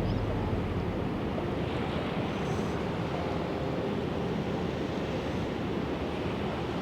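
Pacific Ocean surf washing steadily onto the beach below, with some wind on the microphone.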